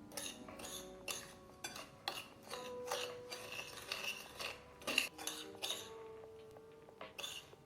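Irregular clinks and scrapes of a metal utensil against cookware, a dozen or more strokes. Several leave a short ringing tone, the loudest about five seconds in. Quiet background music runs underneath.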